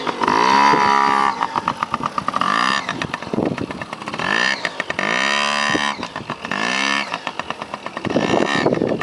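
Small child's motorbike engine revving up and down several times, with low puttering between the revs as the bike rides around.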